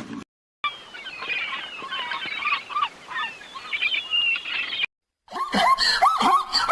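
A flock of birds calling, with many short chirps. After a brief gap near the end, a dog yips and barks in quick repeated calls.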